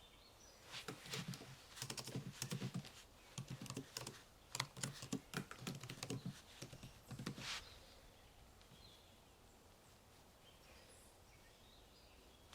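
Typing on a computer keyboard: several quick runs of key presses that stop about two-thirds of the way through, leaving a quiet background with a few faint bird chirps.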